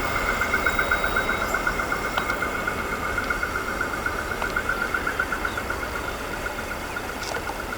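Freight train running past and slowly fading. Over its rumble there is a rapid, evenly pulsing ring and a steady high whine.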